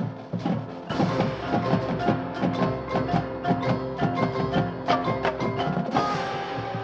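Marching band music: quick, dense percussion and mallet strikes over held chords, swelling louder and fuller about a second in.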